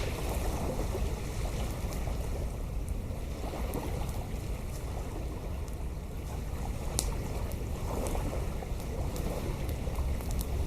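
Wind buffeting the microphone in a steady low rumble, with a few scattered sharp clicks and cracks over it.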